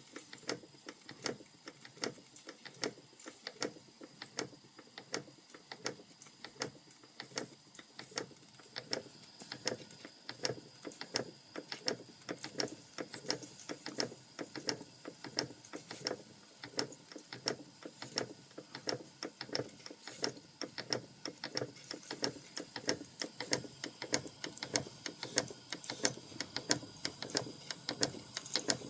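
Vintage Krick model marine steam engine running, its moving parts giving a steady rhythm of light mechanical clicks, several a second, that get a little faster and louder in the second half.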